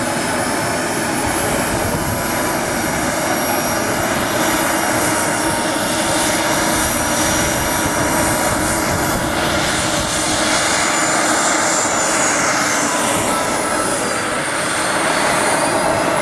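Small turbine engine of a radio-controlled Sebart model jet running: a steady, loud rushing roar with a thin high whine. The whine's pitch rises and then falls through the second half.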